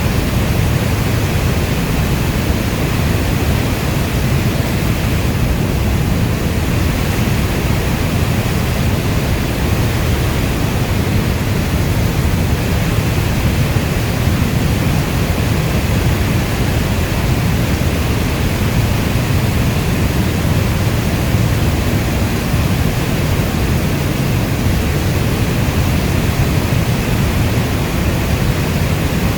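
Steady heavy rainfall, an even unbroken wash of noise with a deep low rumble underneath.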